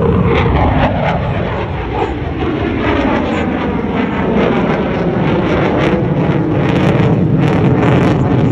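Fighter jet flying past, a loud continuous jet noise whose pitch sweeps downward over the first few seconds, turning rougher and crackling toward the end.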